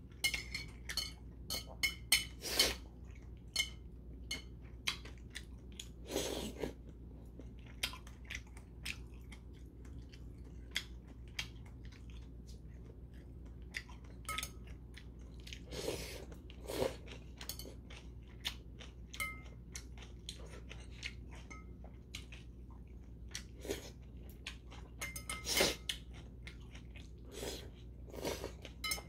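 A person chewing and biting a mouthful of spicy noodles with whelks and shiitake mushrooms: many short, wet mouth clicks and crunches, with a few longer slurps as noodles are sucked in.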